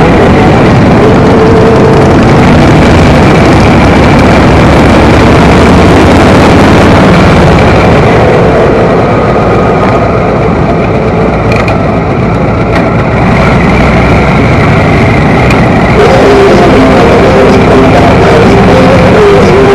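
Motorcycle running at riding speed, its engine under heavy rush of wind, which eases a little for a few seconds around the middle; music plays along.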